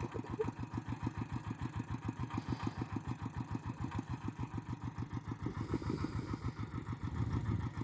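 Tractor engine running steadily while ploughing, a low, even chugging of about eight beats a second.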